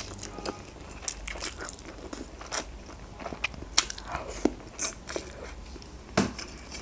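Close-up mouth sounds of a person eating instant noodles and sausage: irregular wet clicks and smacks of chewing.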